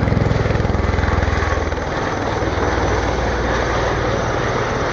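A loud, engine-like aircraft sound: a steady rushing noise over a fast, even low throb.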